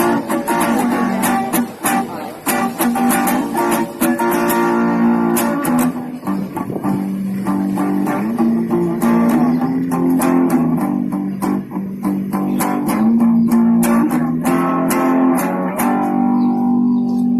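Guitar playing: a steady stream of quickly plucked notes and chords over held lower notes, on one of the guitars of the Guitarralinda guitar bicycle.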